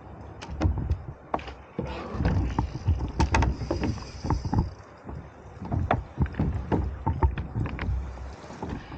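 Irregular knocks and clunks on a plastic fishing kayak's hull over a low rumble, with a short burst of water splashing about three seconds in.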